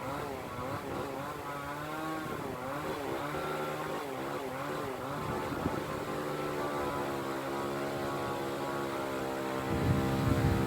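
Small engine running, its pitch wavering up and down for the first few seconds and then holding steady, growing louder near the end.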